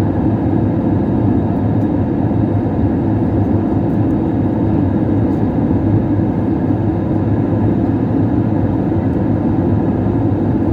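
Steady cabin noise of an Airbus A320neo in flight: engine and airflow rumble, constant and unchanging.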